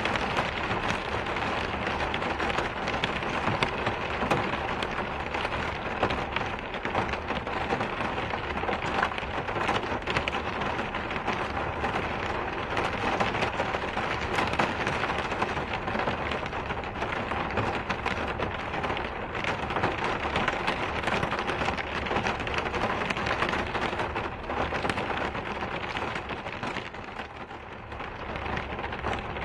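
Steady rain falling on a surface, a dense even hiss with many small drop ticks, dipping briefly a little before the end.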